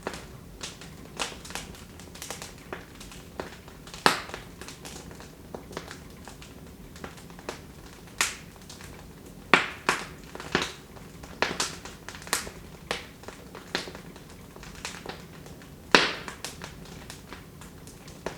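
Wood fire in a fireplace crackling, with irregular sharp pops over a low hiss; the loudest pops come about four seconds in and again near the end.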